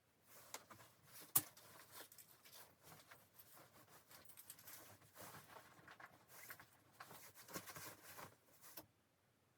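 Rustling and scraping of something being handled, with scattered clicks and one sharp click about a second and a half in; it stops shortly before the end.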